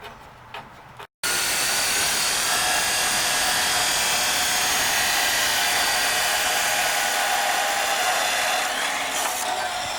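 Handheld power tool, such as a grinder, working steel exhaust pipe. It cuts in abruptly about a second in and runs steadily with a loud hiss and a high whine.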